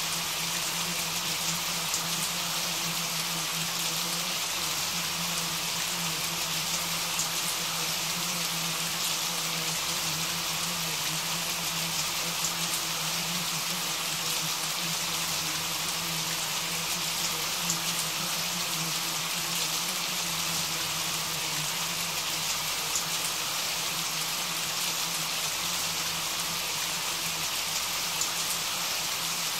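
Steady rain falling: a dense, even hiss of drops with fine pattering ticks, over a faint steady low hum.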